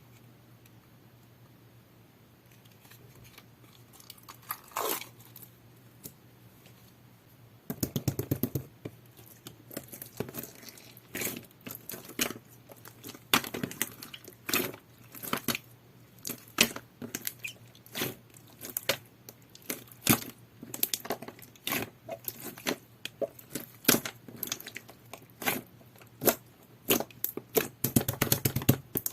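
Clear slime with small gravel beads mixed in, squeezed and kneaded by hand, making crunchy clicks and wet squishes. It is mostly quiet for the first several seconds, then turns into a steady run of crunches and pops.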